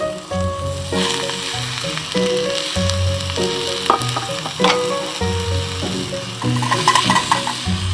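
Food sizzling and frying in a pan over a wood fire, with a few sharp clicks of a utensil about halfway through. Background music with changing held notes plays throughout.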